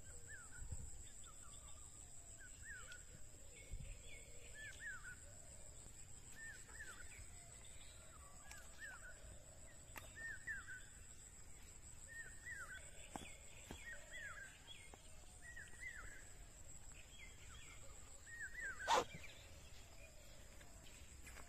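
A bird calling over and over in short, hooked chirping notes, one every second or so, over a steady high-pitched whine. A single sharp click near the end is the loudest sound.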